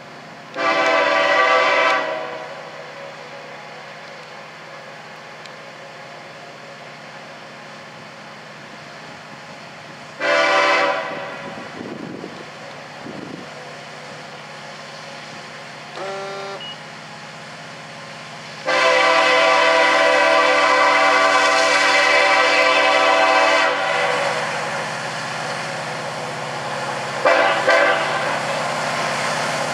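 Diesel locomotive air horn blowing a sequence of blasts, each with several steady tones sounding together: a long blast, a second long blast, a short faint one, then a long blast of about five seconds and a short one near the end. This is in the spirit of the long-long-short-long grade-crossing signal. A steady low engine rumble continues under the blasts.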